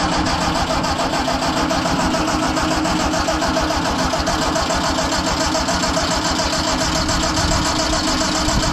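Allis-Chalmers G tractor's starter cranking its four-cylinder engine with a steady, even rhythm, choke on. The cold engine, not run since summer, does not catch.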